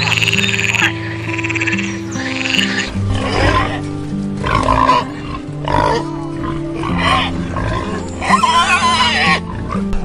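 A series of short animal calls, about one a second, ending in a longer call near the end, over steady background music.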